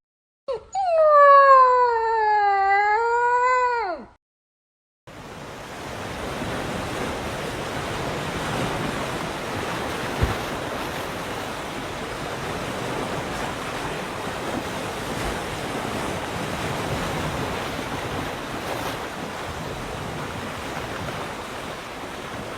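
A long, wavering, howl-like animal call of about three and a half seconds, ending abruptly. After a short silence comes a steady rushing noise like surf or wind.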